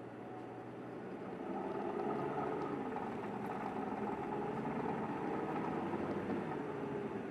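Kanto Bus 1900-series bus engine running, growing louder about a second and a half in, then holding steady.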